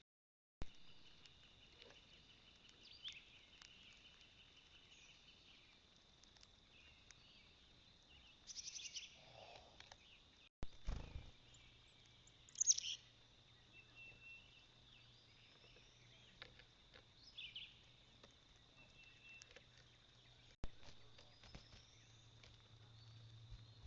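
Faint outdoor ambience at a bird feeder: scattered short bird chirps and calls over a steady high-pitched drone. The sound drops out briefly three times.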